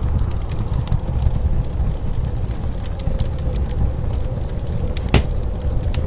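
Wood fire crackling with scattered sharp pops, one louder pop about five seconds in, over a steady low rumble of blizzard wind.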